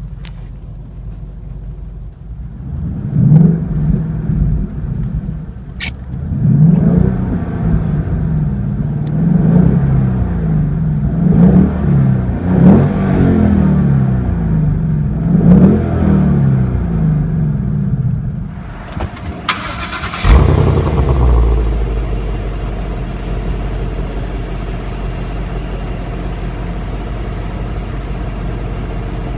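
2016 Ford Mustang GT's 5.0L V8 exhaust: idling, then revved up and down repeatedly, about eight blips in a row. After a short lull a sudden loud burst comes, and it settles into a steady idle.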